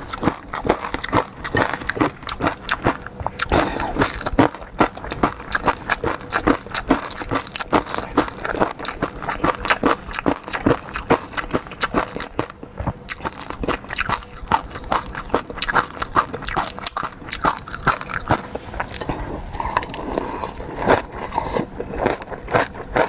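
Close-up eating sounds: seafood being bitten and chewed, many quick crunches and clicks in an unbroken run.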